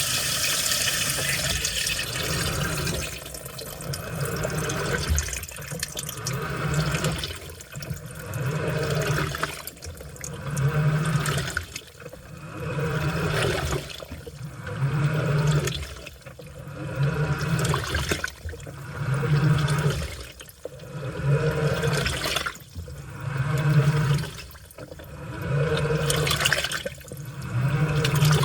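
Washing machine in its wash cycle: a steady rush of water for the first few seconds, then the load and water sloshing in regular surges about every two seconds, each with a low motor hum, as the machine agitates the laundry.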